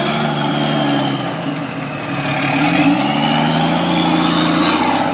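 Jeep Cherokee XJ engine revving under load as it crawls through a deep mud rut. The engine note dips, then climbs steadily through the second half.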